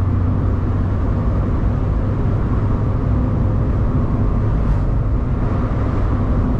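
Mazda MX-5 NB's four-cylinder engine running at a steady speed while the car cruises, heard from inside the open-top cabin together with wind and road noise.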